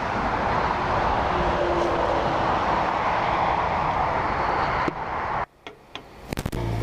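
Steady rushing wind and road noise on a motorcycle rider's microphone at motorway speed in the wet. About five seconds in, it drops away sharply, leaving a few clicks.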